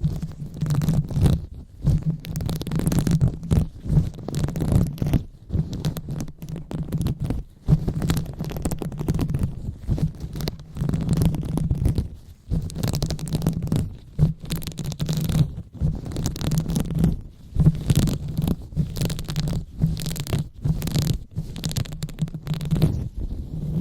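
Hands rubbing and scratching directly on an ASMR microphone in irregular strokes with brief pauses, giving a close, muffled, low rumble.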